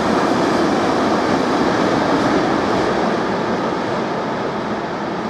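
A train passing through at speed, its wheels and wagons rumbling along the track. The sound eases off after about three seconds as the last wagons move away.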